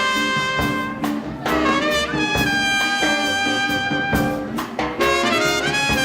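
Live swing band playing an instrumental passage: trumpet, trombone and saxophone holding notes together over a steady drum beat.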